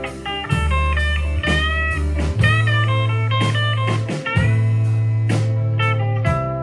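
Live blues-rock band in an instrumental break: a lead guitar plays notes that bend up and down over a steady bass line and drum kit hits.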